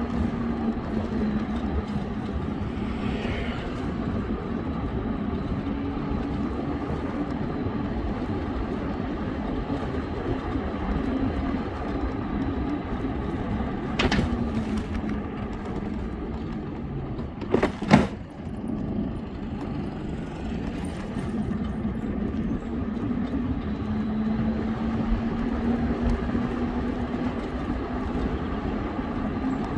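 Steady riding noise from a bike on the road: a dense rush of wind and road noise with a wavering engine-like hum underneath. Two sharp clicks, about 14 and 18 seconds in; the second is the loudest.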